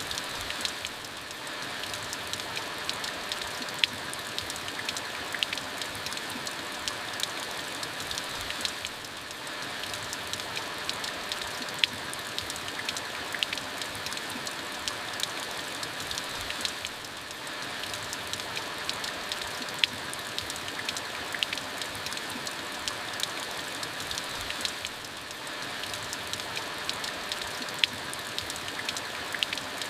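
Steady rain falling, with the sharp ticks of individual drops striking close by scattered through the hiss. The level dips briefly about every eight seconds.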